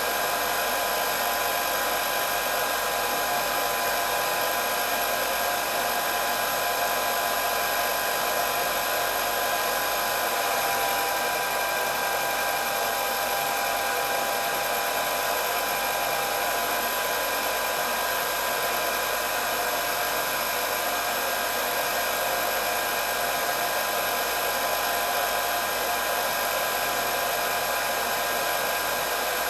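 Electric hair dryer running steadily on one setting: an even rush of blown air with steady high motor whine tones over it, and little low end.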